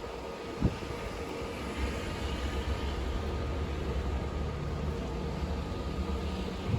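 Snowstorm wind blowing steadily, with a low rumble that builds about two seconds in. There is a single knock under a second in.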